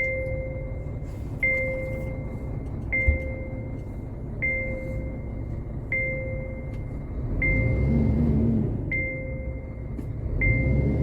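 A two-tone warning chime from the Scania R500's cab, sounding about every one and a half seconds, over the low rumble of the truck's diesel engine running.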